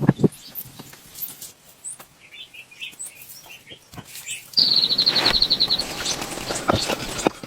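A bird's rapid, high-pitched trill of about ten notes a second, lasting just over a second past the middle, with faint chirps before it. Scattered light knocks and taps run throughout and get louder and busier from about halfway in.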